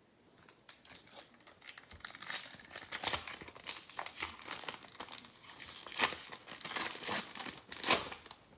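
A trading card pack wrapper being torn open and crinkled by hand, a run of irregular crackles and rips that grows louder, with the sharpest crackles near the end.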